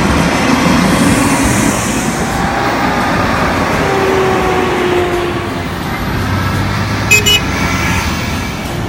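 Trucks and other vehicles driving off with engines running and tyre noise, one faint engine tone sliding slightly lower about four to five seconds in. A short, sharp, loud sound about seven seconds in.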